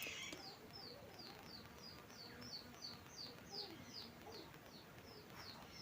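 Faint, repeated high chirps from a bird, about three a second, each falling in pitch.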